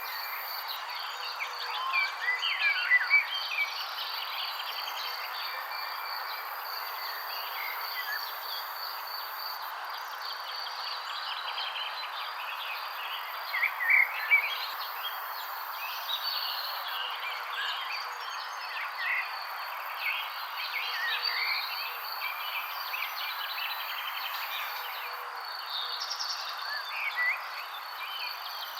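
A chorus of birds chirping, many short overlapping calls, over a steady high insect trill. Louder bursts of calls come about two to three seconds in and again near the middle.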